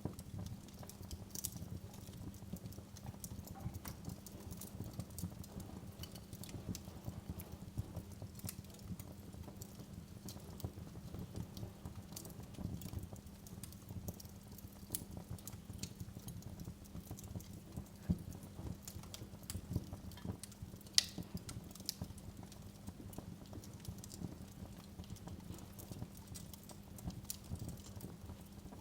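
Wood fire in a fireplace crackling: irregular sharp pops and snaps over a low steady rumble of the flames, with one louder pop about two-thirds of the way through.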